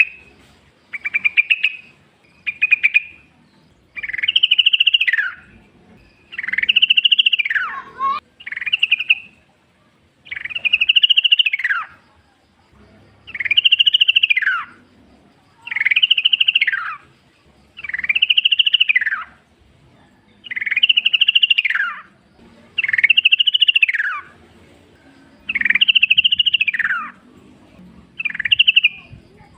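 Yellow-vented bulbul singing: one short phrase, rising then falling in pitch, repeated about every two seconds, the first few phrases shorter and flatter.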